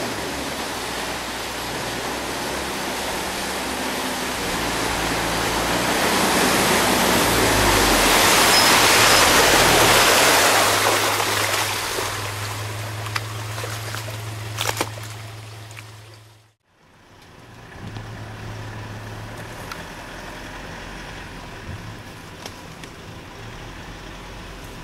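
A 4x4 SUV driving off-road: low engine hum under a broad rushing noise that swells to a peak about ten seconds in and then fades. The sound drops out abruptly about two-thirds of the way through and resumes quieter.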